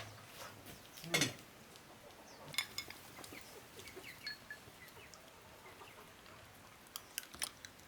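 Chickens clucking, with a short call about a second in and scattered high peeps after it. A few light clicks of tableware come near the end.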